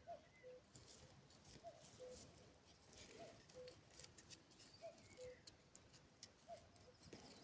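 Faint bird call, a falling two-note phrase repeated about every second and a half, over near silence with scattered small clicks.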